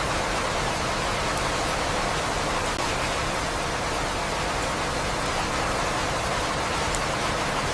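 Steady rain, an even hiss of falling drops.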